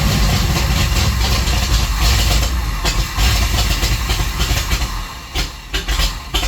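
Ford 8BA flathead V8 of a 1951 Ford F3 pickup running roughly just after a cold start, after months of sitting. It falters and dips about five seconds in, then picks up again.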